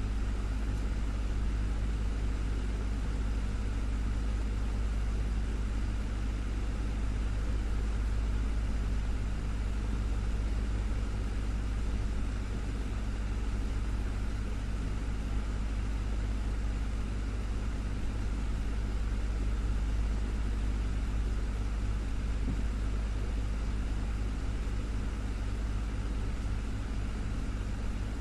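Desktop fan running steadily: a constant low hum with a few steady tones and an even airy whoosh.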